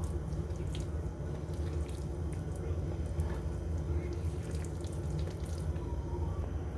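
Hands squeezing and mixing a wet batter of soaked red lentils, chopped onion and spices in a bowl: soft wet squelches and small clicks over a steady low hum.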